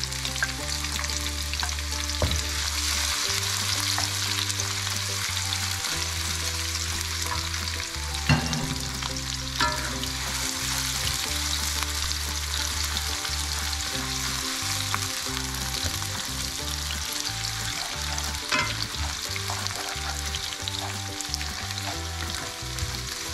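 Chopped garlic, ginger and onion sizzling in hot oil in a wok, with a few sharp clinks of the stirring utensil. They are frying until golden. A light background music track with steady low notes plays underneath.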